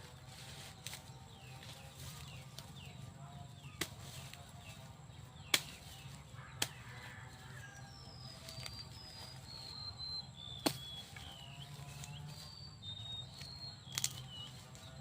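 Birds chirping in short whistled notes, mostly in the second half, over a steady low hum, with about five sharp knocks at irregular intervals; the loudest knock comes about five and a half seconds in.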